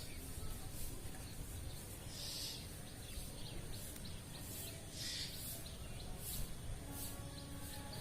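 Faint bird calls, two brief ones standing out about two and a half and five seconds in, over steady outdoor background noise.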